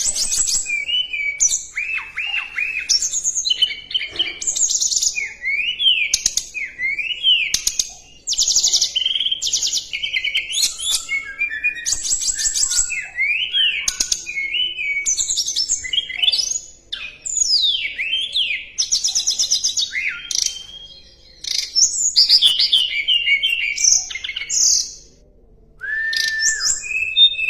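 A songbird singing a long, varied song of rapid trills, quick rising and falling whistles and chattering notes, broken by short pauses about four times.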